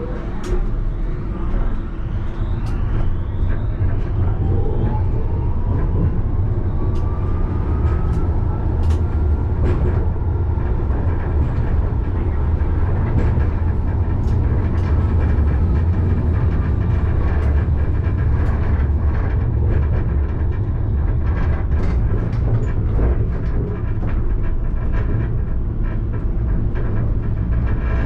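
Alstom Citadis tram running on its rails, heard from inside the driver's cab: a steady low rumble with an electric drive whine that rises in pitch over several seconds as the tram picks up speed, and scattered clicks from the wheels and track.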